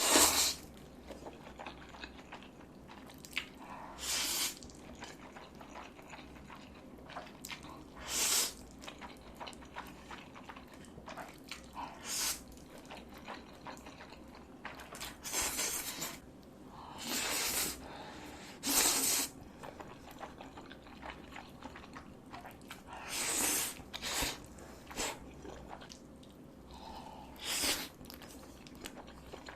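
A person eating close to the microphone: irregular bites, chewing and crunching, with a dozen or so short noisy bursts scattered through it.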